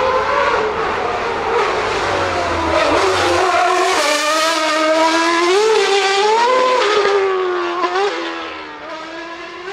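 Race car being driven hard on the hill climb: a loud pitched note that rises and falls several times as it is driven through the course, then fades away near the end.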